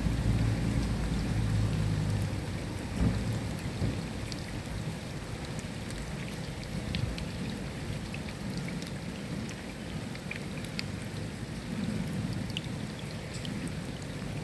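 Steady rain with scattered close drips ticking, under a low rumble of thunder that fades out after about three seconds; a softer rumble swells again near the end.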